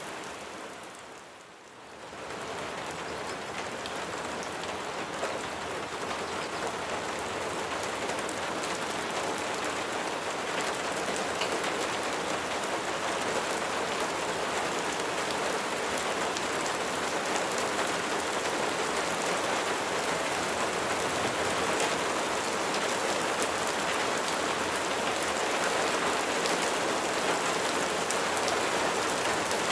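Steady rain falling, many drops pattering on a surface as an even hiss. About a second in the sound briefly fades down and swells back up, then carries on steadily, growing slightly louder.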